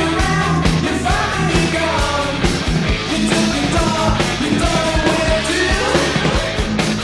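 1980s rock song played by a full band, with a steady drum beat under a sung vocal line.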